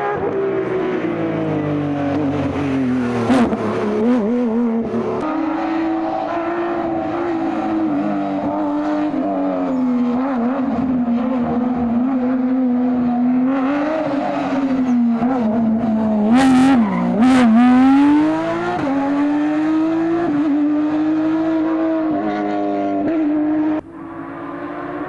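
Porsche sports car engine running hard, its pitch rising and falling again and again as it revs through gear changes, with a few sharp cracks about two-thirds of the way in. The sound drops away suddenly near the end.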